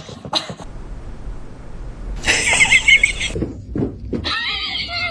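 Cats crying: a high, wavering cry about two seconds in, then a lower wavering cry near the end.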